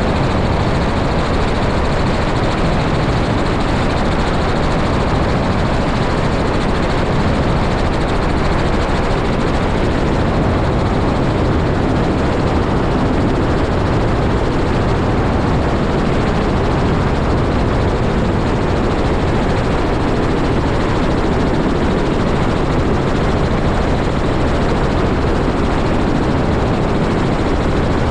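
Helicopter running steadily: a loud, constant engine and rotor noise that holds the same level throughout.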